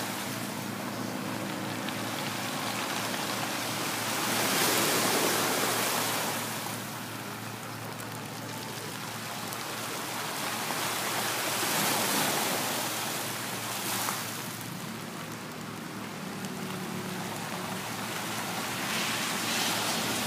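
Sea waves washing onto the shore, the surf swelling and breaking three times, about seven seconds apart.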